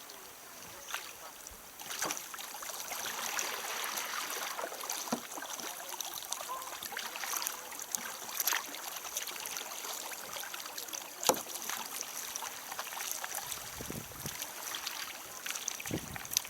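Water splashing and running around a kayak as it is paddled, with a few sharp knocks, the loudest a little over eleven seconds in.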